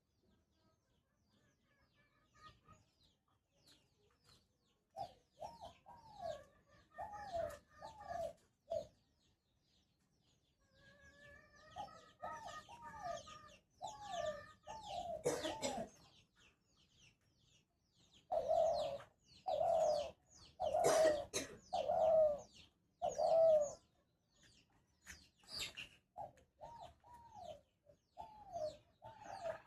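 Spotted dove cooing in four bouts of repeated, arched notes, with scattered sharp clicks between and during the bouts.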